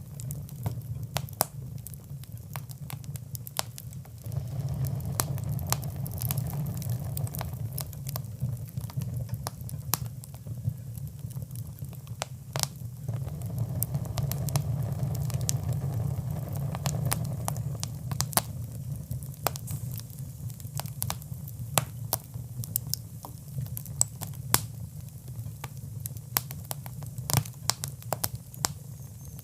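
Wood fire burning in a fireplace, crackling with many irregular sharp pops over a steady low rumble.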